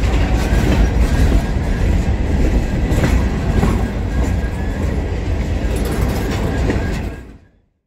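Freight train running on the rails: a loud, heavy rumble with a few sharp knocks, fading in at the start and fading out near the end.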